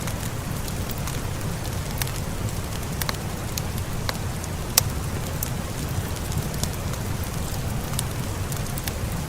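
Steady rain ambience with a fire crackling, a continuous deep rushing hiss broken by scattered sharp crackles, one louder pop about halfway through.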